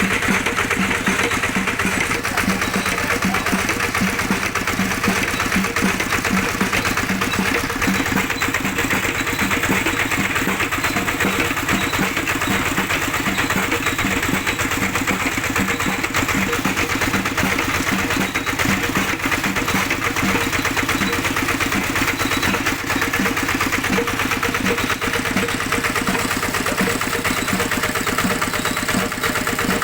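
Old Kubota tractor engine running steadily, with an even, regular low beat.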